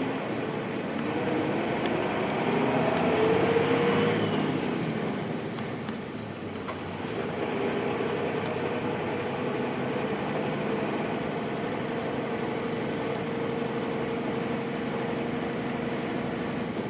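Nissan Diesel Space Runner RM (KC-RM211) mid-size bus with its FE6 diesel engine, heard from inside the cabin while driving. The engine note rises and grows louder under acceleration for the first few seconds, drops about four seconds in, then holds a steady drone at cruising.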